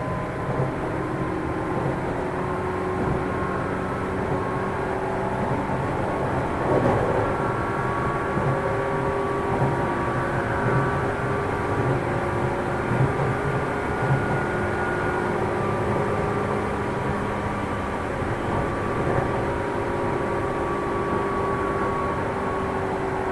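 Running noise inside a JR East 205 series electric train's motor car with externally fanned traction motors, moving at speed between stations: a steady rumble of wheels on rail with several steady whining tones from the motors and gears. A few louder knocks come through, the strongest about seven seconds in.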